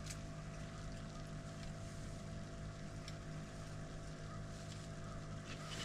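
A steady, low droning hum under wind noise, with a few faint clicks.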